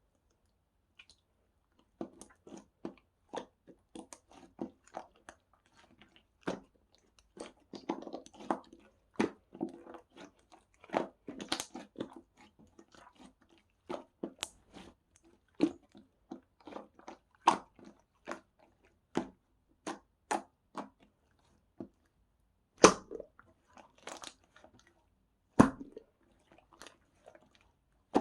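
Close, irregular crunching and crackling, several sharp clicks a second, with two louder snaps near the end.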